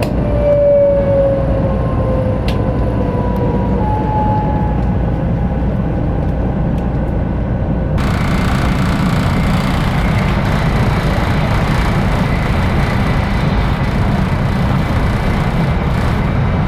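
A 500 Series Shinkansen carrying on at speed, heard from inside the car as a steady rumble. In the first few seconds a couple of faint whines fall in pitch. About halfway through, the sound abruptly turns brighter and harsher.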